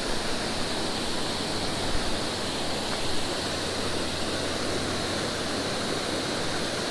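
Steady rushing roar of a creek waterfall, water pouring and splashing over rock.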